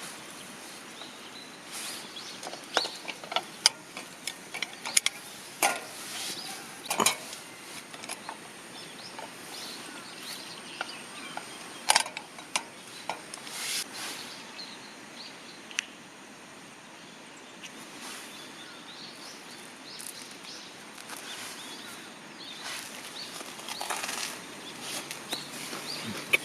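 Outdoor ambience: a steady rushing hiss with scattered sharp clicks and snaps, and an occasional bird call.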